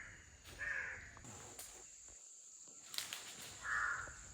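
Crows cawing: two short hoarse caws about three seconds apart, with a light tap just before the second.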